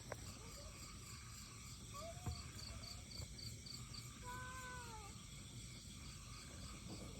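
Insects, likely crickets, chirping faintly with a quick regular pulse over a steady high buzz. About four seconds in, a short rising-and-falling call is heard, with a couple of light knocks.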